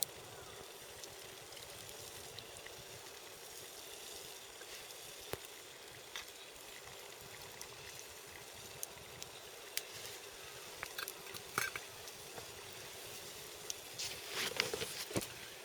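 Campfire crackling over a steady hiss, with scattered pops and a run of louder crackles near the end.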